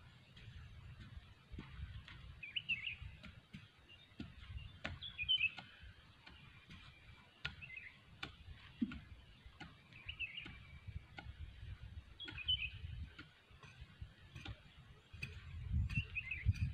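Small birds chirping in short calls every two or three seconds over a low, gusty rumble of wind on the microphone.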